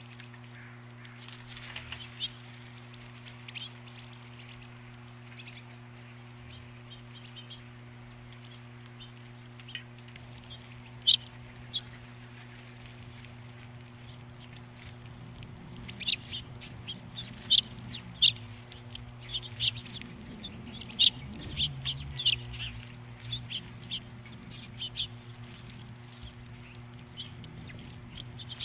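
Birds at an osprey nest making short, sharp chirps and taps, a few at first and then a quick run of them in the second half, over a steady low electrical hum.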